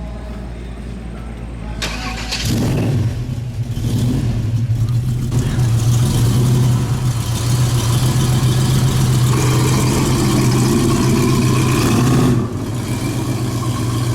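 A car engine running steadily. Its low hum steps up in pitch and loudness about two and a half seconds in, holds, and eases off a little near the end.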